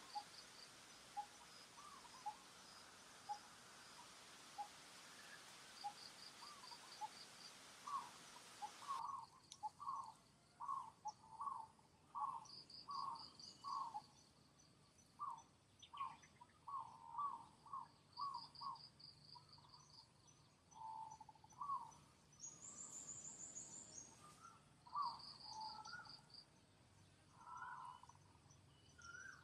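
Forest ambience of animal calls: short calls repeated about twice a second in series, with bursts of high chirping trills. The background hiss drops away about nine seconds in.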